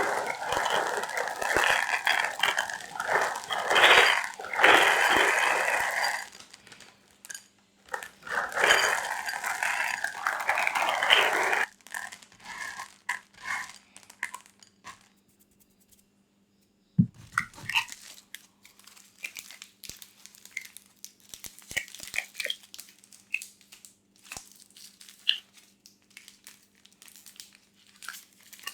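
Plastic food packaging crinkling and rustling in two long loud spells, followed by softer scattered clicks, taps and rustles.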